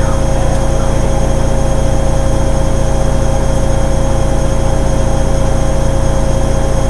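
Hoover Ecologic 800 automatic washing machine running steadily: a constant motor whine over a low hum, with no change in speed.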